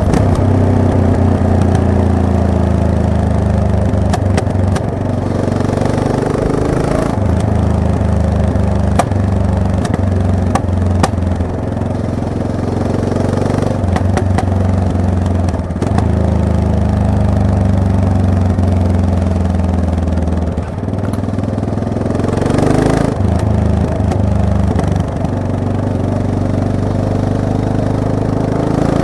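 Yamaha MT-03 motorcycle engine running under way, close to the microphone, its note dipping and picking up again several times, with a few short clicks along the way.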